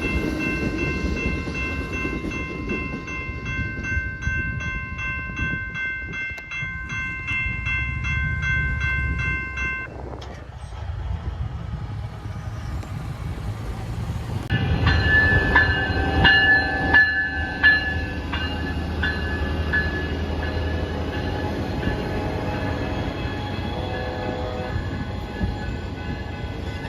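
An Amtrak Empire Builder passenger train runs past a railroad grade crossing with a steady low rumble. Ringing tones pulse rapidly over the first ten seconds, then stop. A louder group of tones, peaking several times, comes in about halfway through.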